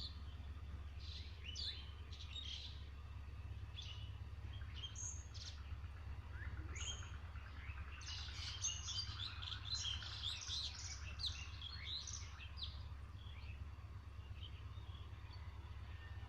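Birds chirping: scattered short calls at first, then a busy burst of overlapping chirps about halfway through that thins out again. A steady low hum runs underneath.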